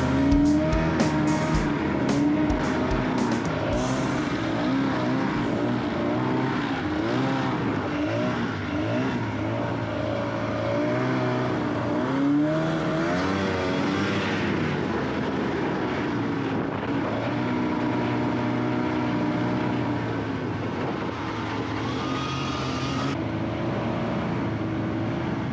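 Snowmobile engine running while riding, its pitch rising and falling with the throttle, with a few knocks near the start.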